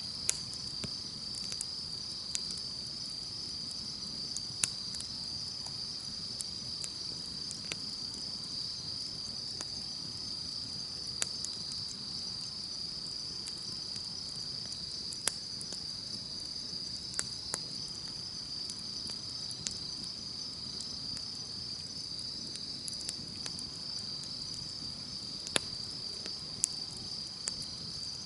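Crickets or similar insects chirring steadily, with a campfire crackling and popping underneath in scattered sharp snaps.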